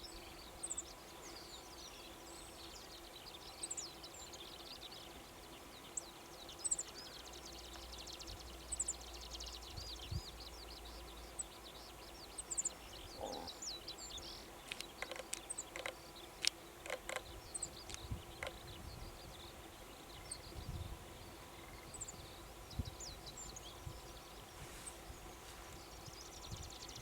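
Many distant small birds calling and singing in short, thin, high chirps and sweeping notes, over a faint steady hum.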